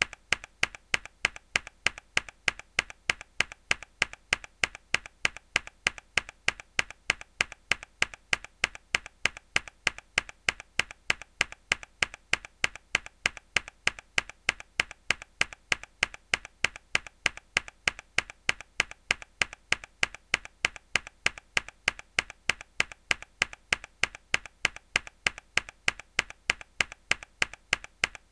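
Mechanical keyboard key pressed hard again and again, a sharp click repeating at a steady even pace of about three a second.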